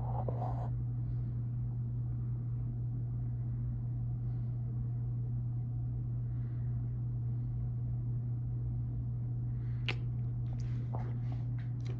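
Freight train's steady low rumble, unchanging throughout, with a few sharp clicks and knocks about ten seconds in and near the end.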